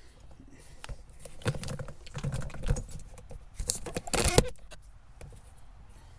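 Handling noise: a quick run of clicks, rattles and rustles of loose things being moved about, loudest about four seconds in, then quieter.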